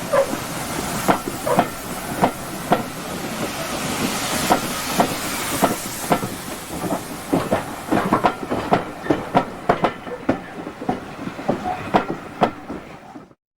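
Train passing on the line, its wheels clicking over the rail joints in an uneven run of sharp clicks over a steady hiss. It grows fainter over the last few seconds, then cuts off suddenly.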